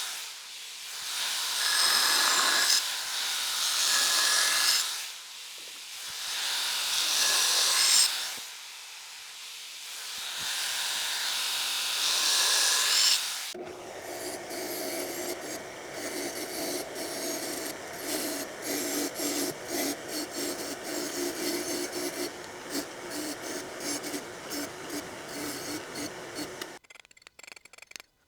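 A 2x72 belt grinder grinding a forged railroad spike blade, in repeated passes of about two seconds each as the steel is pressed against the belt and lifted off. About halfway it gives way to a quieter, scratchy sound over a steady low hum, which cuts off shortly before the end.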